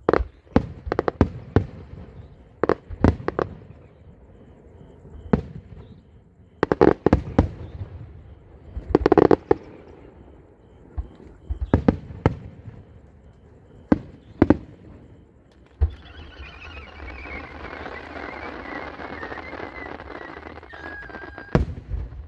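Aerial fireworks shells bursting in a string of loud, irregular bangs, some in quick clusters. Later there are several seconds of hissing with a slowly falling whistle, then a final pair of bangs.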